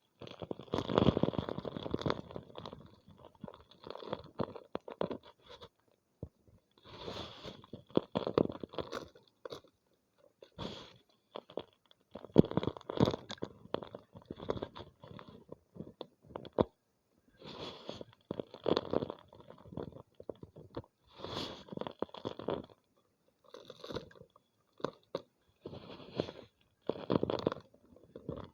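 Homemade gym chalk being crushed and crumbled, in repeated crunchy bursts of about a second each with brief pauses between.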